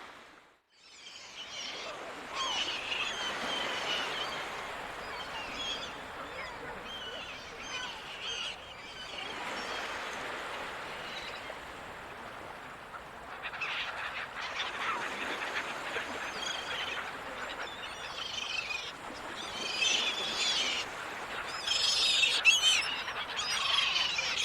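Seagulls calling over the steady wash of ocean surf, many short calls overlapping, growing louder and busier near the end.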